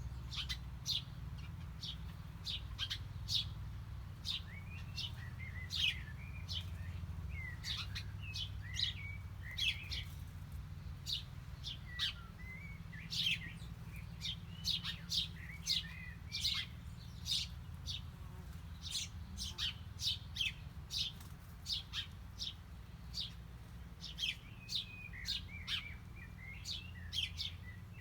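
Small songbirds chirping: many short, sharp, high chirps in quick succession with a few brief twittering notes, over a steady low rumble.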